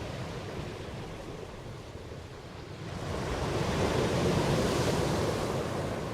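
Ocean waves surging and washing in: a wave builds about three seconds in, peaks, then draws back near the end.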